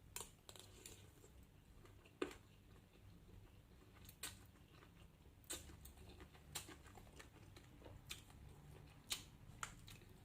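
Faint eating sounds of a person chewing, with sharp crunchy clicks of bites about every second or two.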